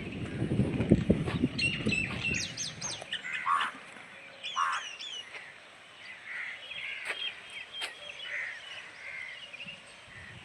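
Birds calling: a run of short, high chirps and quick downward-sliding calls. These are preceded for the first couple of seconds by low scuffing and rustling.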